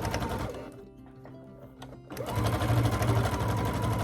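Electric sewing machine stitching in two short runs. The first stops about half a second in. The second starts just after two seconds in, its motor whine rising quickly to a steady speed with the needle's rapid strokes.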